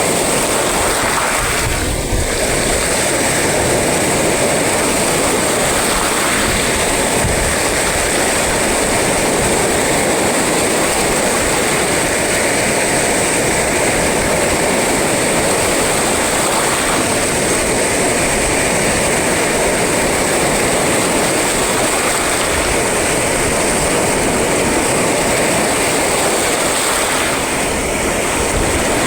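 Sea surf and wind: a loud, steady rush of noise with no separate wave crashes standing out.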